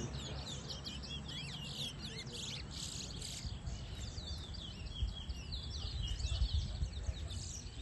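Towa-towa (chestnut-bellied seed finch) singing: a fast, continuous run of whistled twittering notes that slide up and down. Each song is counted toward a bird-singing race score. A steady low rumble lies underneath.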